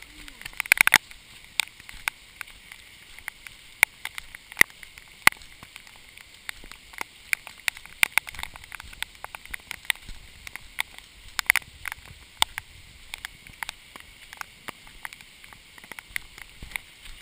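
Heavy rain: irregular sharp taps of raindrops striking the camera, with a quick cluster of them about a second in, over a steady hiss of rainfall.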